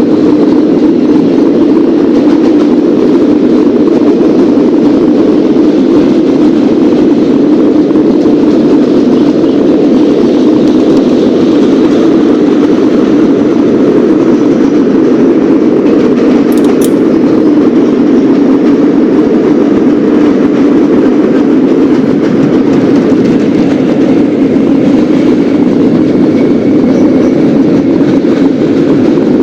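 Subway garbage train running on the track: a loud, steady rumble of wheels on rail.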